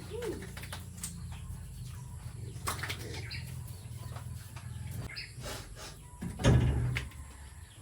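Birds calling over a steady low hum, with scattered clicks and a louder call about six and a half seconds in.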